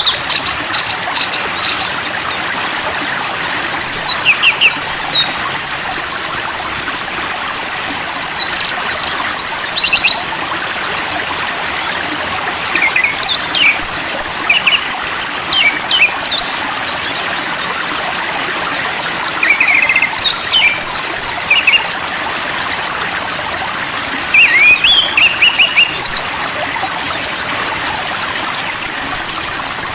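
A songbird sings in bursts of quick, high whistled and chirping phrases, each lasting a few seconds and separated by pauses, over the steady sound of flowing water.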